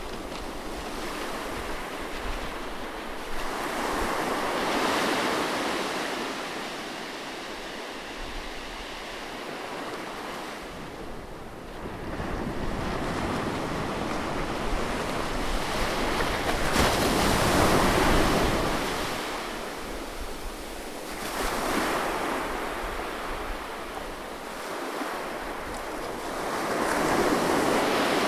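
Sea waves breaking close by on a shore, the surf swelling and receding in slow surges every several seconds, with the biggest break about two thirds of the way through.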